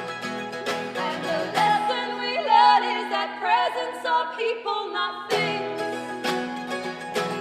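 Live acoustic folk song: strummed acoustic strings with a woman singing. The sung line bends and wavers in pitch in the middle, and the strumming thins out while she sings there.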